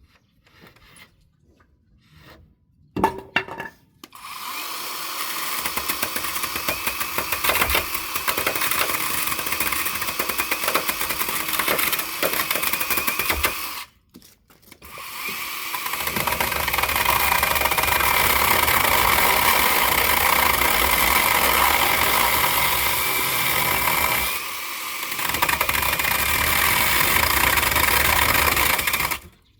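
Handheld power tool running under load through pallet wood, in two long runs with a short stop about halfway, its whine dipping briefly near the end. A sharp knock comes just before it starts.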